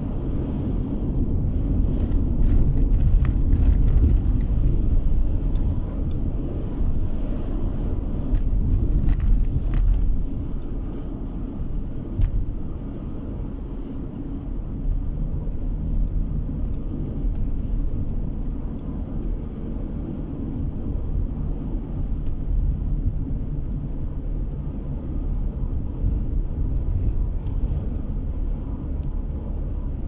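Steady car road noise heard from inside the cabin while driving: a low rumble of engine and tyres, with a few faint ticks in the first ten seconds or so.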